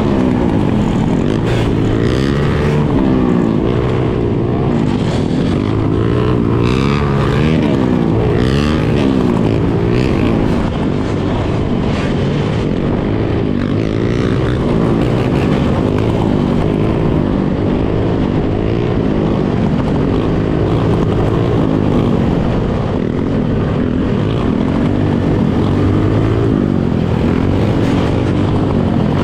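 A pack of dirt bikes and ATVs running and revving together, many engine pitches overlapping and rising and falling.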